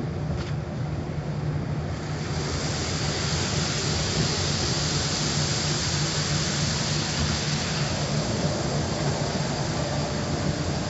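Automatic car wash machinery running, heard from inside the car: a steady low hum, joined about two seconds in by a louder rushing hiss of water or air that holds steady.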